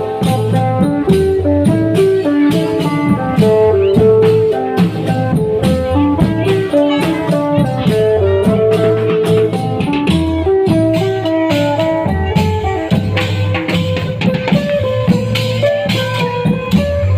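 Thai klong yao (long drum) band music: a quick plucked-string melody over steady drumming and sharp percussion strikes.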